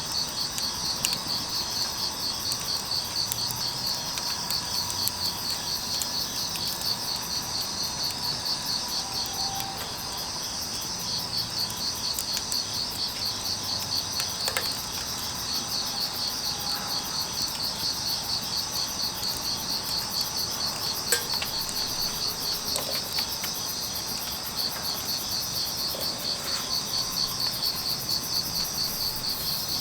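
Crickets chirping in a continuous, rapidly pulsing chorus, with a few sharp pops from burning firewood.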